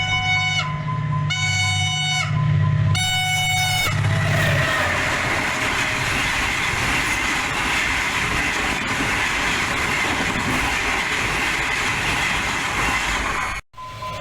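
Henschel diesel locomotive sounding its multi-tone horn in three blasts of about a second each over its steady engine drone. The train then rushes past with loud, even wheel-and-rail noise, which cuts off abruptly near the end.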